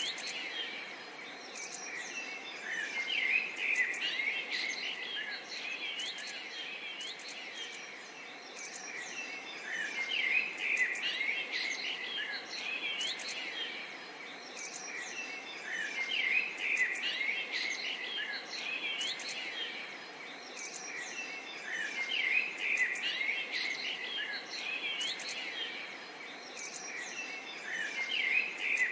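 Outdoor bird chorus: many small birds chirping and twittering together over a faint steady hiss, the chirping swelling and fading about every six seconds.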